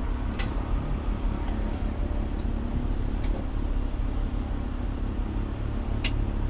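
Fire engine's diesel engine running with a steady low rumble, heard from inside the cab, with a few sharp clicks, the sharpest near the end.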